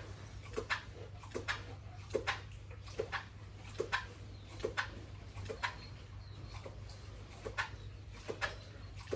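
A pig grunting in a steady rhythm, about one short grunt every second, over a steady low hum.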